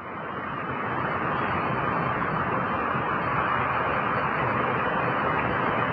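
Steady vehicle noise, a rushing engine-and-road sound that swells over the first second or so and then holds steady.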